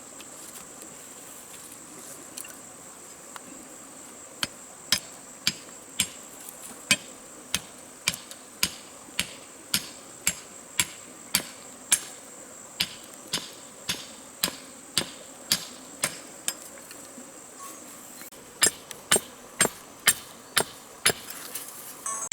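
Repeated sharp strikes, about two a second, like a hammer or blade hitting something hard, in a long run, a short pause, then another run. A steady high insect drone sounds under the first half.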